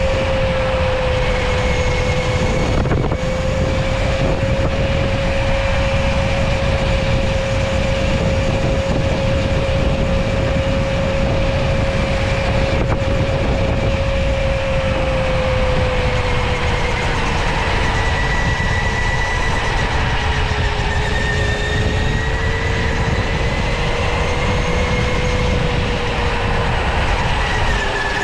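Electric go-kart's motor whining steadily over a continuous low rumble as the kart drives. The whine holds level at first, then drops a little in pitch in the second half and again near the end as the kart slows.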